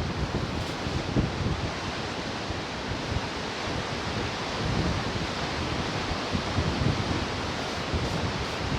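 Ocean surf washing in as a steady rushing noise, with wind buffeting the microphone in irregular low rumbles.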